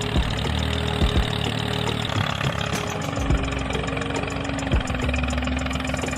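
A motor running steadily with a fine rapid ticking, and a few sharp knocks, one just before the first second and another near the end.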